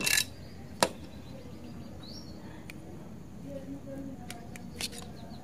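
A few sharp clicks and knocks of metal parts being handled as a power sprayer pump's valve assembly is taken apart, with faint bird chirps behind.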